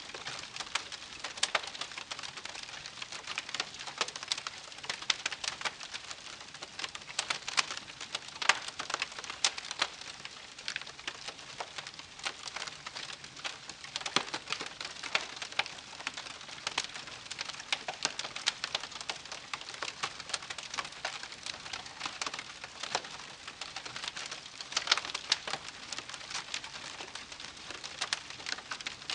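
Wood campfire crackling steadily, with frequent sharp pops and snaps over a soft hiss.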